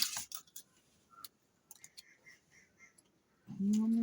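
Eating sounds during a meal: a sharp clack with a few quick clicks, typical of a spoon against a plate, then a person humming a drawn-out 'mmm' while chewing, starting about three and a half seconds in.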